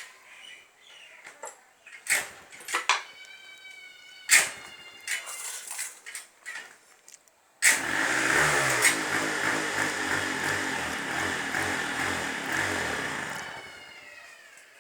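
Yamaha RX 135 two-stroke single being cold-started: a series of sharp clicks and knocks, then about seven and a half seconds in the engine catches suddenly and runs loudly for about six seconds before fading away with a falling pitch.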